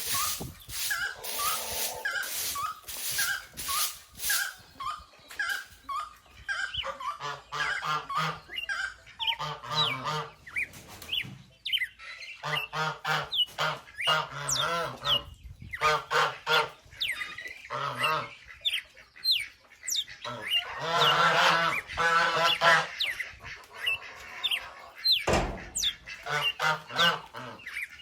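A flock of farmyard fowl being fed, calling loudly in repeated quick runs, with short high chirps from smaller birds over them.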